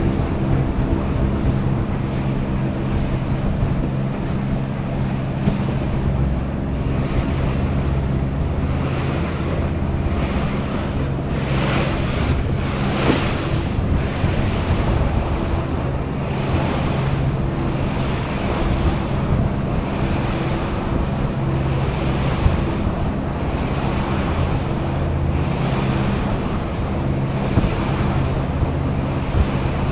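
Harbor shuttle boat underway: its engine drones steadily while water rushes along the hull, with wind on the microphone. The water noise swells briefly about halfway through.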